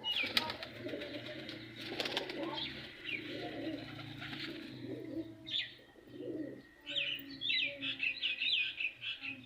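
Caged birds calling: pigeons cooing low and steadily while small birds chirp high over them, the chirps coming in a quick run near the end.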